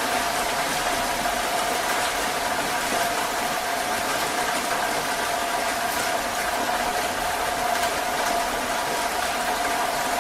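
Heavy rain falling in a steady, even hiss, with a steady hum of a few held tones underneath.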